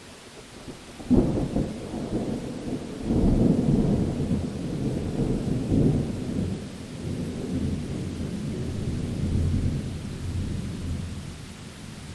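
A thunderclap about a second in over steady rain hiss, followed by a long rolling rumble of thunder that swells and slowly fades near the end.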